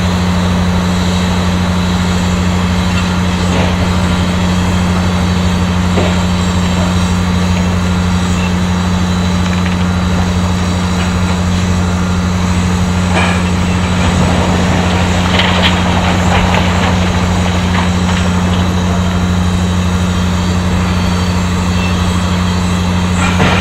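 Heavy mining machinery running with a steady low hum, with some scattered clanks and a stretch of rattling about two-thirds of the way through.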